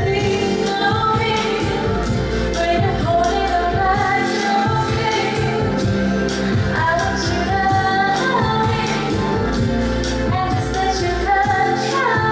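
Live pop song performance: a woman singing with the band playing.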